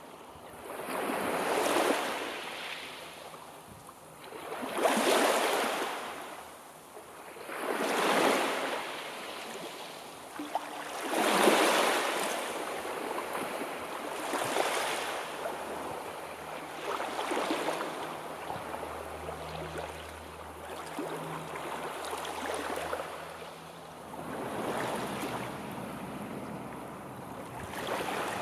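Sea waves breaking and washing in, one surge about every three seconds, stronger in the first half and gentler toward the end.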